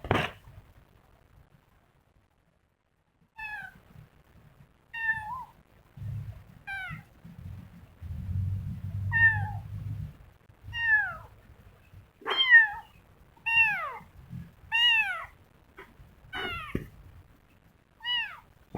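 Kitten mewing over and over: about a dozen short, high-pitched calls that fall in pitch, coming roughly once a second and getting louder about twelve seconds in. A single thump right at the start, and a low rumble in the middle.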